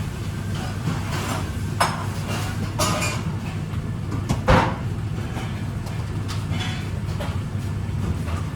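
A few knocks and clatters of kitchen things being handled, the loudest about four and a half seconds in, over a steady low hum.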